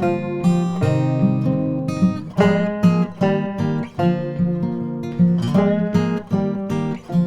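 Background music: strummed acoustic guitar playing a lively tune with a steady rhythm.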